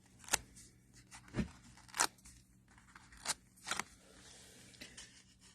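Paper and card being handled on a craft table: about five short, sharp crinkles and taps spread across a few seconds.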